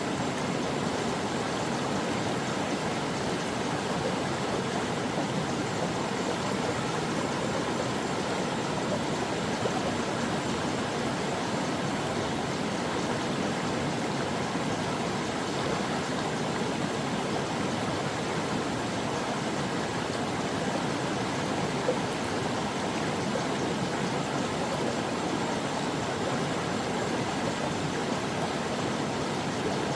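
Stream water flowing over rocks, a steady, even rush with no breaks.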